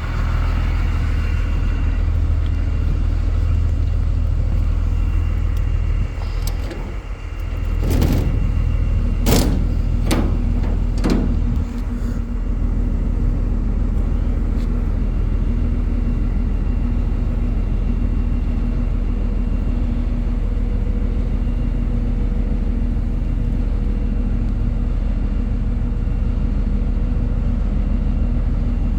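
5.9 Cummins inline-six diesel of a Ford F650 running steadily, with a few sharp knocks about eight to eleven seconds in, after which a steady hum joins the engine note.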